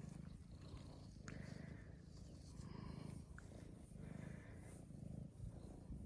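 Domestic cat purring close up, a low steady rumble that swells and eases about once a second.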